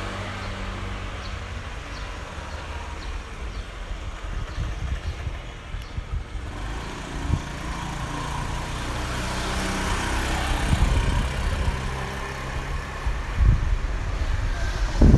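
A car engine running close by, a steady low hum. From about ten seconds in, gusts of wind buffet the microphone with low thuds.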